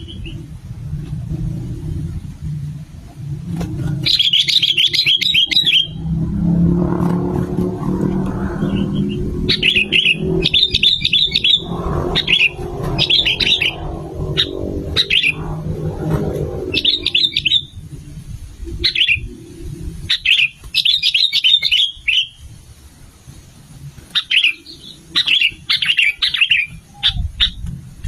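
Sooty-headed bulbul (kutilang) singing, a string of short, quick chirpy phrases repeated every second or so. A low rumble runs underneath and fades out about two-thirds of the way through.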